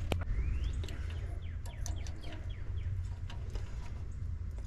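Songbirds chirping, with many short calls and a rising sweep near the start, over a steady low rumble.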